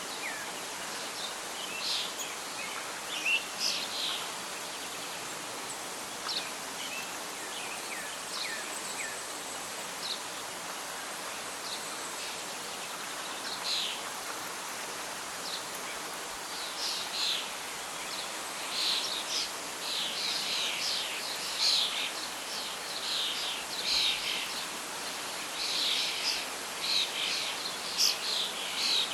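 Birds chirping and singing over a steady rustle of wind in leaves. The calls are scattered at first and become a busy run of chirps from about halfway through.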